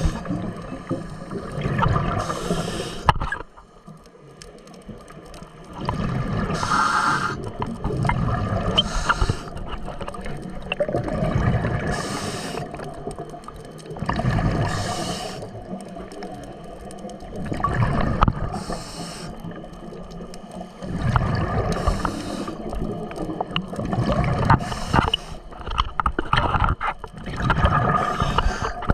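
Water gurgling and sloshing, with a rushing surge about every two to three seconds.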